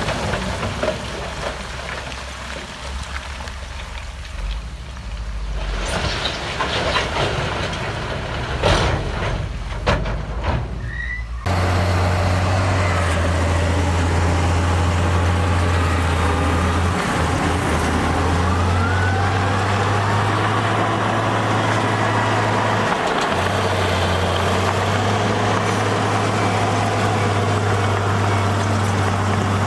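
Heavy diesel construction machinery running: a rougher, lower engine sound with a few sharp knocks, then, after an abrupt cut about eleven seconds in, a louder steady engine drone.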